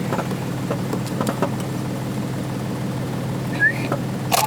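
Vehicle engine running steadily, a low even hum, with a short high chirp about three and a half seconds in and a sharp click near the end.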